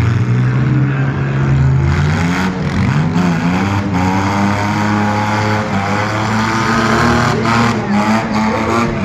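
Several demolition derby cars' engines revving hard at once, their pitches rising and falling against each other, with a few short bangs of cars hitting.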